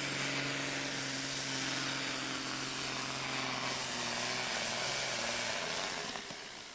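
A pulling machine's engine running steadily under a loud, even hiss of noise. The low hum fades out about five and a half seconds in, leaving the hiss.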